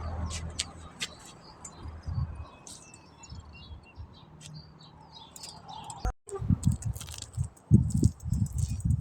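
Birds chirping, short high calls over a faint low hum. After an abrupt break about six seconds in, loud irregular low rumbling thumps take over.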